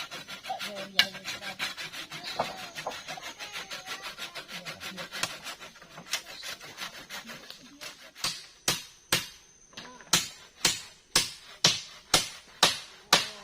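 Hand saw cutting through wood with quick, even strokes. A little past halfway it gives way to a hammer driving a nail into hard wood, about two sharp blows a second.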